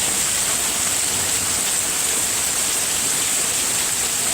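Heavy rain pouring down in a thunderstorm: a steady, even hiss.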